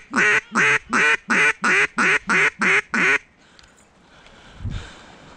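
Duck quacking: a rapid run of about ten loud, evenly spaced quacks over roughly three seconds, then a single low thump near the end.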